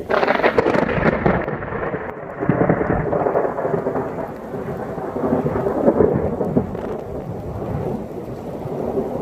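A thunderclap breaking suddenly, then rolling on as rumbling thunder that swells again about two and a half and six seconds in, over falling rain.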